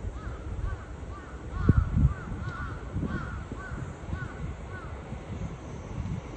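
Birds calling in many short, repeated arching notes, over uneven low wind buffeting on the microphone that is strongest about two seconds in.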